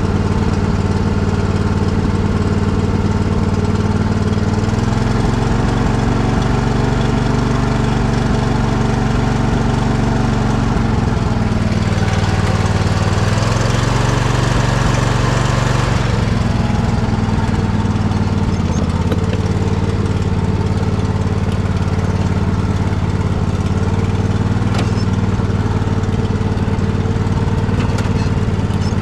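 Poulan riding mower engine running with a bad misfire, starting to pop. Its speed steps up about five seconds in, runs harder and noisier for a few seconds around the middle, then settles back.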